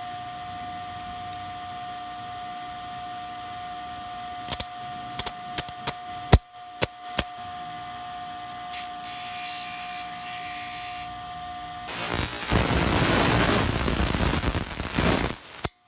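Bench grinder running with a steady hum, with a few sharp clicks and knocks about five to seven seconds in. From about twelve seconds in there is a loud grinding as a piece is pressed against the wheel, cutting off suddenly near the end.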